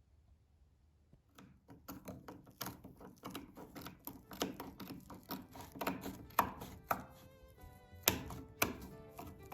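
A quick, irregular run of sharp knocks and taps starting about a second in, with music coming in under them near the end.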